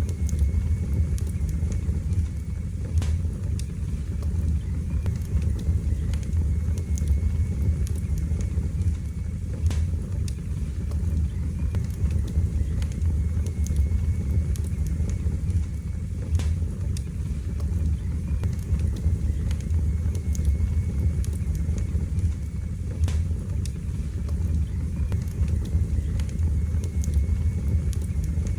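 Wood fire burning in a fireplace: a steady low roar of the flames with sharp crackles and pops every few seconds.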